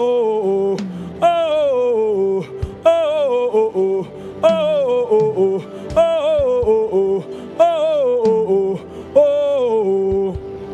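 A voice singing the same short falling phrase about seven times, one every second and a half or so, over a steady held keyboard note.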